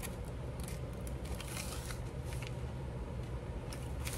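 Strips of wax paper and vellum rustling and crinkling as they are handled, in short scattered crackles over a steady low hum.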